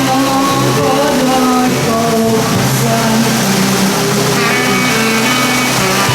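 Live band music with steady held notes. A constant hiss of heavy rain runs underneath.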